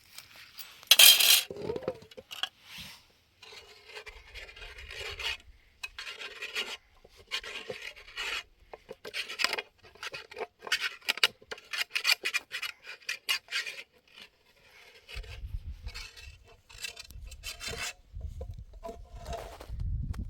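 Repeated rasping, scraping strokes at an irregular pace, with one louder, sharper scrape about a second in.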